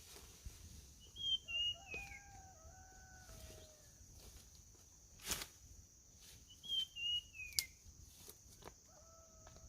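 Birds calling: two phrases of short falling whistled notes, each with lower held notes beneath, over a steady high insect drone. A few sharp knocks cut through, the loudest about halfway through.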